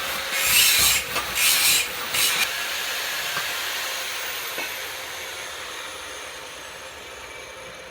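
Metalworking noise: several short bursts of harsh hiss, then a steady hiss that slowly fades with a faint high whine falling in pitch.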